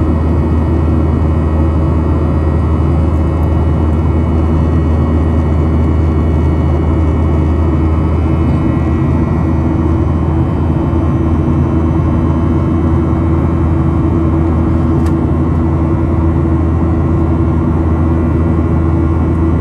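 Boeing 737-800's CFM56-7B jet engines running steadily: a constant deep drone with steady tones above it.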